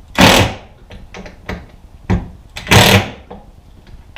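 Power drill driving screws into the wooden door, in two short bursts about two and a half seconds apart, with a small click between them.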